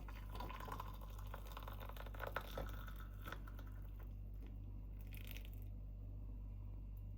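Crinkling and crunching handling sounds with scattered clicks, then a brief hiss about five seconds in, over a steady low hum.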